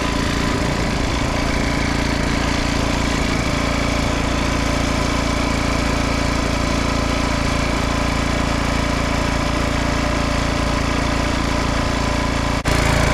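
Small gasoline engine running at a steady, unchanging speed, with a brief dropout near the end.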